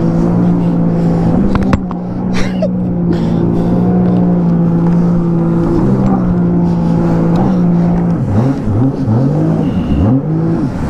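Jet ski engine running hard at a steady high speed, over a rushing noise. From about eight seconds in its pitch swoops down and back up several times in quick succession as the throttle is eased and opened again through turns.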